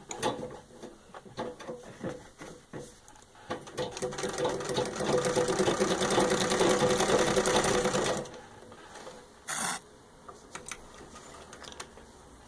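Antique Singer 66-1 treadle sewing machine stitching through six layers of denim. It starts with a few slow, separate stitches, speeds up about four seconds in to a fast, steady full-speed run, and stops abruptly about eight seconds in. A few light clicks and a short rasp follow.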